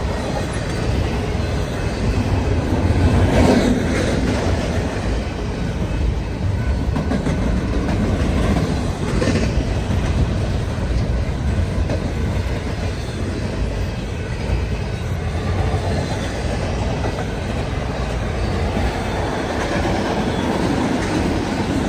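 Freight cars of a Union Pacific manifest train rolling past on the rails, a steady noise of wheels on track, briefly louder about three and a half seconds in and again around nine seconds.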